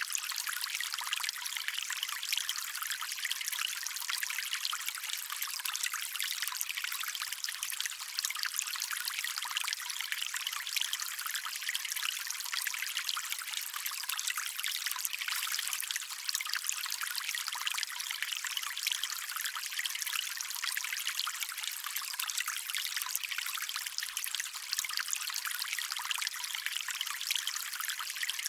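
Shallow stream water trickling and burbling steadily, a bright even splashing with little low rumble.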